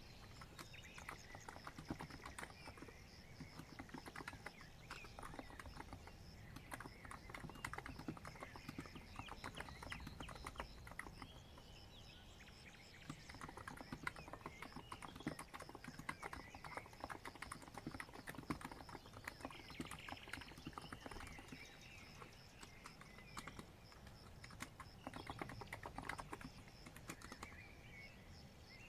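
Continuous typing on a COX Empress Living Coral Edition electro-capacitive keyboard: a steady, irregular run of soft key taps. Birds chirp faintly in the background.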